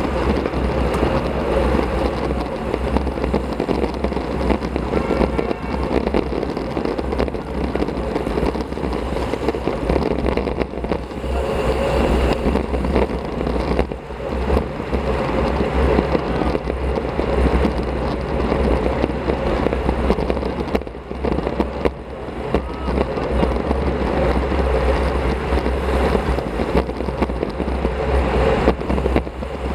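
Steady wind rumble and road noise from riding a road bicycle at speed, picked up by a bike-mounted action camera's microphone.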